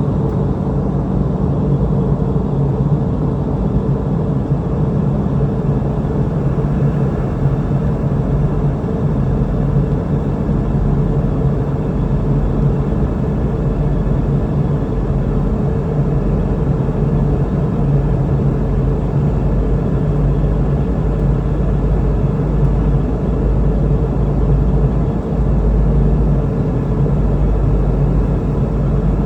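Steady cabin drone of a Boeing 717-200 in flight: the hum of its two rear-mounted Rolls-Royce BR715 turbofans and the rush of air over the fuselage, with a low rumble and a few steady tones.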